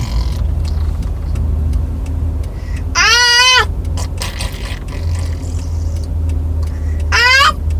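A young child making two short, high-pitched vocal noises: a wavering squeal about three seconds in and a shorter rising one near the end, over the steady low rumble of a car on the road.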